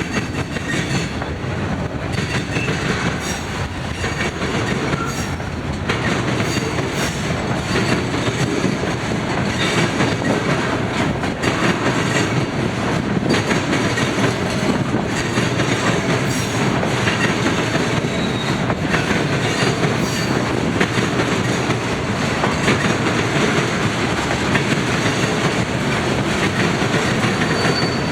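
Freight train cars rolling past at speed, steel wheels clicking over the rail joints, with brief faint wheel squeal.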